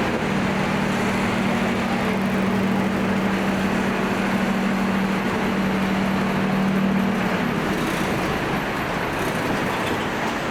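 City street traffic noise, with a steady low engine hum from a nearby vehicle that stops about seven and a half seconds in.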